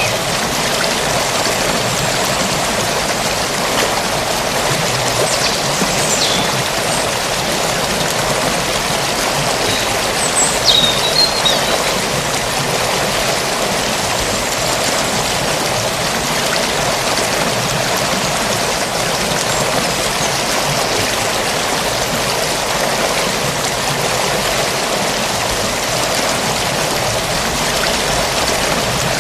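Forest stream flowing steadily, a continuous rush and babble of water. A few brief high chirps come through about six and eleven seconds in.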